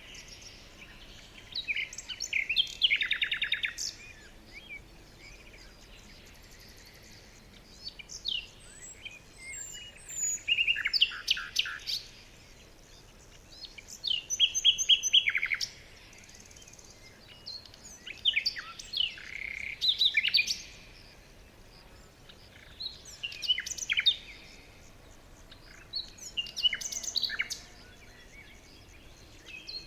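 Songbirds chirping and singing in short, quick phrases of high notes and trills, in clusters every few seconds with brief pauses between.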